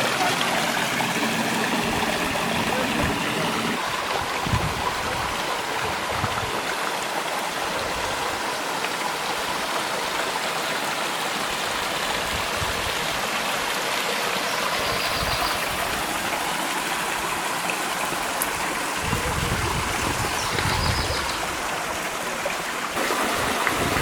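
Sycamore Canyon Falls pouring steadily in good flow, a constant rushing of falling water, with a few low gusts of wind on the microphone.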